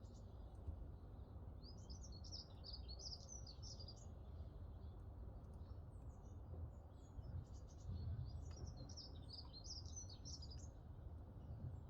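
A small songbird singing two runs of quick, high twittering notes, the first about one and a half seconds in and the second about six seconds in, over a steady low rumble.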